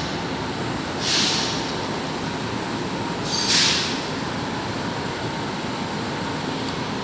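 Metro train running in the station: a steady rumble with two short bursts of air hiss, about a second in and again about three and a half seconds in.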